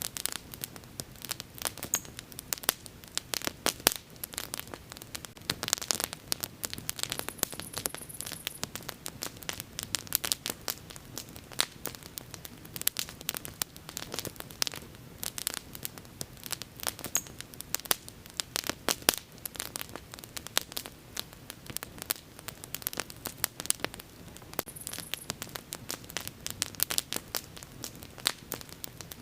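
Wood bonfire burning with dense, irregular crackling: several sharp pops and snaps a second, some much louder than others, over a faint steady low rumble of the flames.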